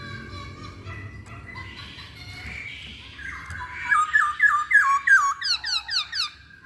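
Chinese hwamei (Poksay Hongkong) singing: soft, varied notes, then about four seconds in a loud run of repeated downslurred whistles, about four a second, that jumps to a higher pitch partway through.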